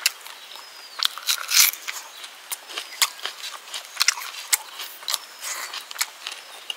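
Close-miked eating: chewing a mouthful of rice and pork curry, with wet mouth clicks and lip smacks coming irregularly, the loudest about a second and a half in.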